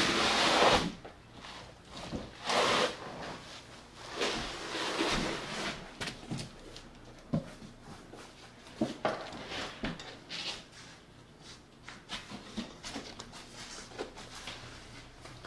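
Cardboard shipping boxes being handled and shifted. Several scuffing, scraping rushes of noise come in the first half, then scattered light knocks and taps.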